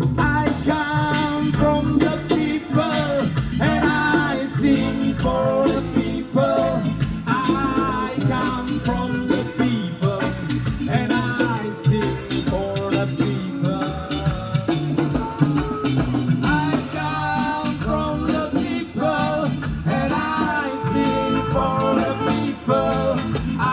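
A band playing a song, with a singer's voice over the instruments throughout.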